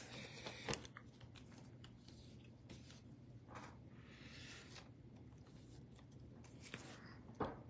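Near silence with faint handling of trading cards and pack wrappers: a few light clicks, a soft rustle midway and a sharper click near the end.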